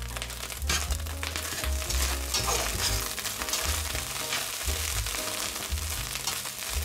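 Minced beef and chopped onions sizzling in a stainless steel pot, stirred with a metal spatula that scrapes against the pan. Background music with a steady bass line plays under it.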